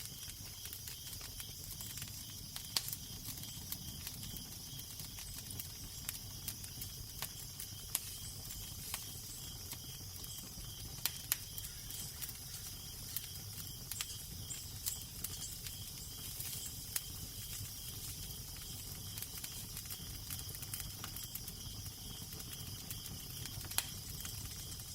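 Wood fire crackling, with irregular sharp pops and snaps scattered throughout, over a steady hiss and a low rumble of wind.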